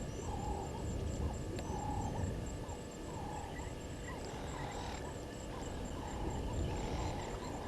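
Wild birds calling around a waterhole: a short low note repeated about once a second, with thin high chirps above it. A low rumble of wind on the microphone runs underneath.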